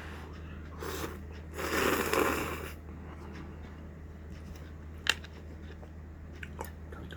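Slurping yaki udon noodles: a short slurp about a second in and a longer, louder one around two seconds, followed by a single sharp click and a few faint ticks, over a steady low hum.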